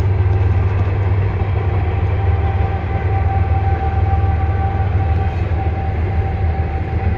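CN freight train of diesel locomotives and double-stack container cars passing, a steady low rumble. About a second and a half in, a thin steady high whine joins it and holds.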